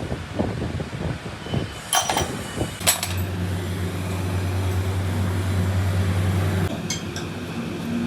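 Metal tools and parts clinking with a ringing note, twice about two and three seconds in, then a motor humming steadily for about four seconds before cutting off, with more clinks near the end.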